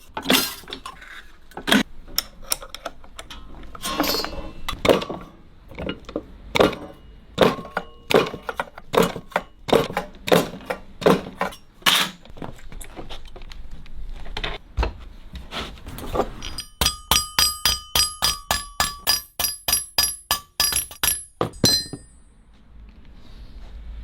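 Hammer blows on metal: irregular knocks at first, then about five seconds of quick, even, ringing strikes, about four a second.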